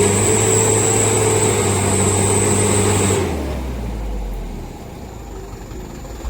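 Mitsubishi Canter HD 125PS diesel truck engine running hard under load with a steady high whine. About three seconds in, the throttle comes off: the whine stops and the engine drops to a lower, quieter note.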